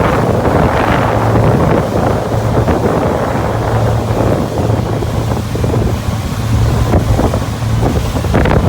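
A boat running under way on the water: a steady engine hum under heavy wind buffeting on the microphone and the rush of water along the hull.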